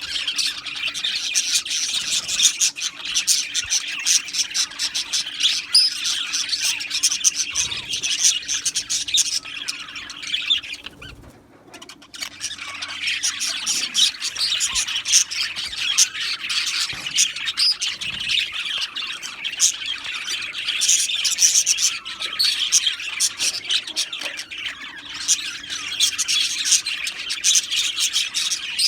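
A flock of budgerigars chattering, chirping and squawking without a break, many birds at once, with a short lull about eleven seconds in.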